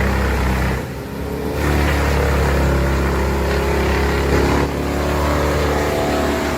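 Large crane-fed wood chipper running hard, its engine and feed steady and loud. The sound dips briefly about a second in, then picks up again.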